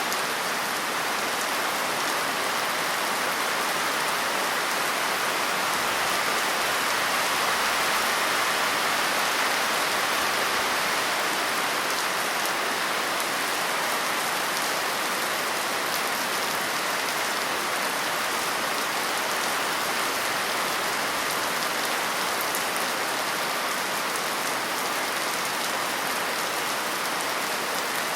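Steady rain falling on a surface, an even patter without a break.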